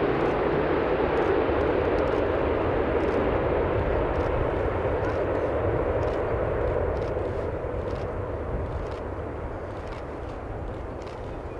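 Jet noise from an Airbus A380-861's four Engine Alliance GP7200 turbofans, a steady rumble that fades steadily over the second half as the airliner moves away. Faint scattered clicks sound over it.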